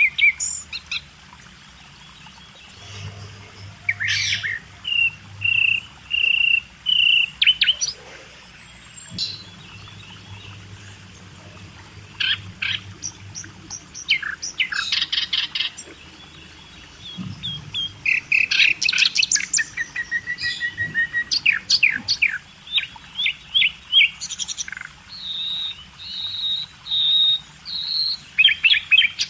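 Birds chirping and singing: many short repeated chirps and several high, thin trills.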